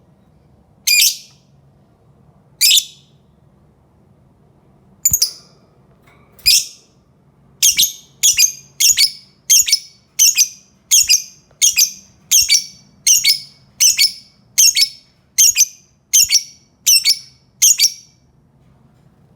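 Lovebird giving short, shrill calls: a few spaced calls, then a steady run of about fifteen, roughly one every 0.7 seconds, that stops near the end.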